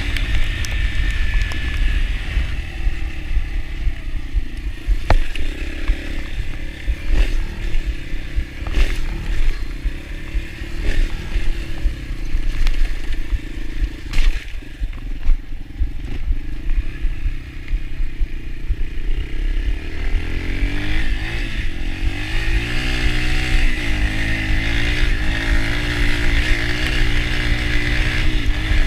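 Yamaha TT-R125 dirt bike's single-cylinder four-stroke engine being ridden, its revs rising and falling with the throttle. The engine eases off through the middle and picks up again near the end, with scattered knocks and clatter over a steady low rumble.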